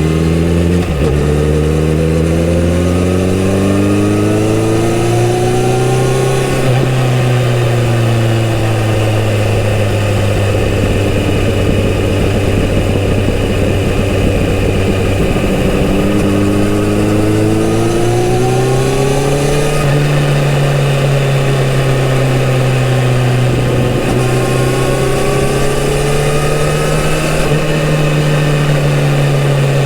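Kawasaki Z900RS inline-four engine through its stock exhaust while riding: the revs climb over the first few seconds, ease off, climb again about sixteen to twenty seconds in, and rise a little once more near the end.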